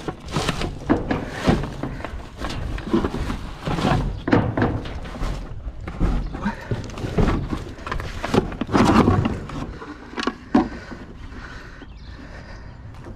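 Irregular knocks, thuds and clatter of scrap items being handled and moved, dying down after about ten seconds.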